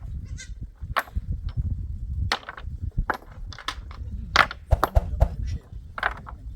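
Sheep and goats bleating, many short calls one after another.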